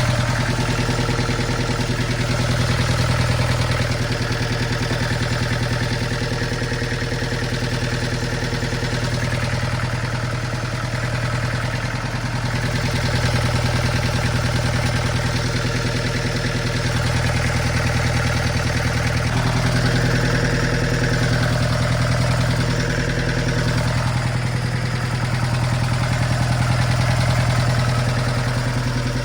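Bobcat 7753 skid steer's diesel engine idling steadily.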